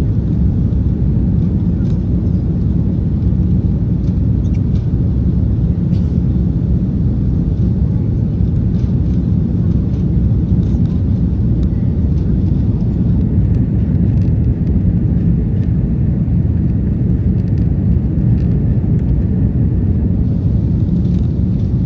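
Airbus A330-200 airliner's jet engines and airflow: a loud, steady deep rumble that holds an even level, with a few faint ticks and rattles over it.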